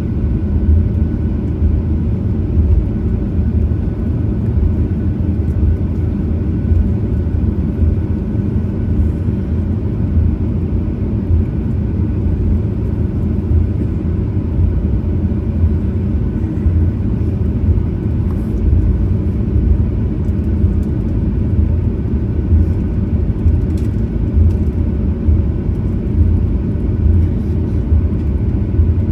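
Boeing 737-900ER's CFM56-7B turbofans running steadily, heard inside the passenger cabin as a low, even rumble with a faint steady whine above it.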